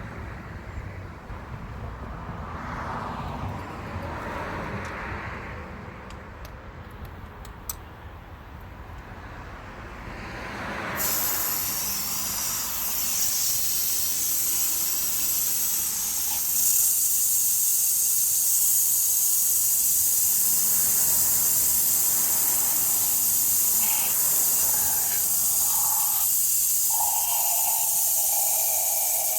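A steady, high-pitched hiss starts suddenly about eleven seconds in and gets louder about five seconds later. Before it there are muffled low rumbling and a few knocks.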